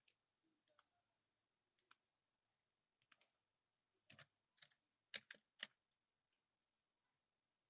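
Faint, irregular clicks of a computer mouse and keyboard against near silence, about a dozen of them. The loudest come in a cluster about four to six seconds in.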